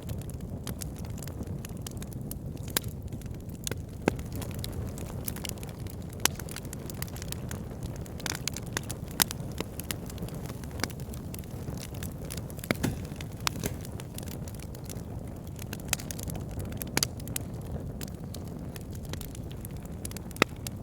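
Wood fire burning in a fireplace: a steady low rumble of flames with frequent sharp crackles and pops from the burning wood, a few louder pops scattered through.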